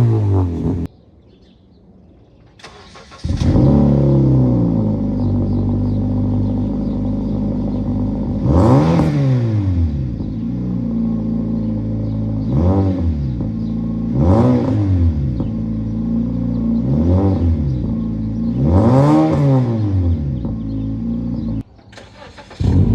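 2012 Honda Civic 1.8 L four-cylinder idling through an aftermarket exhaust and being blipped five times, each rev rising and falling back to idle. There is a near-silent gap about a second in and another near the end.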